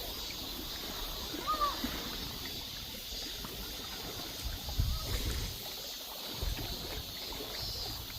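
Sea water splashing and lapping softly, with a faint short chirp about one and a half seconds in.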